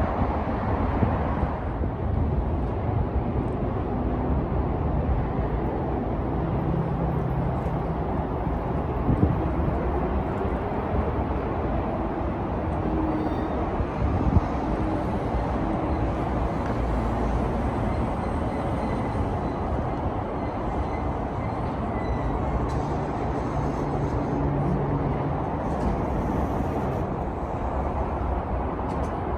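Electric commuter train at a station platform: a steady low rumble with a faint motor whine that rises and falls midway, and two short knocks. Heavy wind noise on the microphone.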